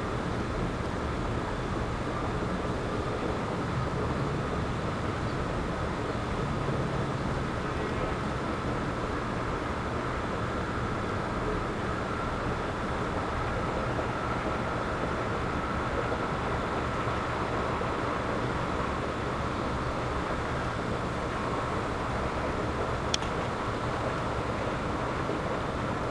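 Steady outdoor wind with a low rumble. One sharp click near the end.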